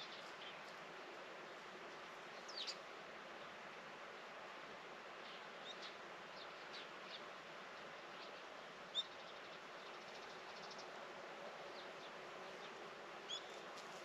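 Faint, steady outdoor ambience with a few short, high bird chirps scattered through it, the loudest about nine seconds in.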